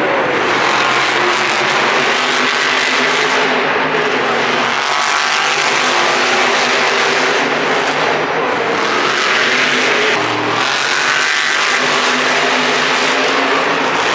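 Monster truck engines running loud in an arena, revving so the pitch rises and falls over a dense, continuous din.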